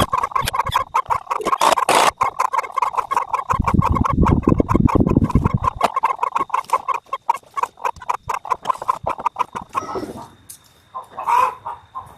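Chickens clucking rapidly and continuously, thinning out to a few scattered calls near the end. A low rumble joins in for about two seconds around the middle.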